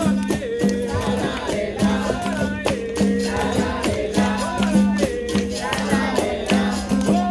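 Capoeira roda music: berimbau with caxixi rattle and pandeiro keeping a steady rhythm under call-and-response singing, with a group of voices answering the lead.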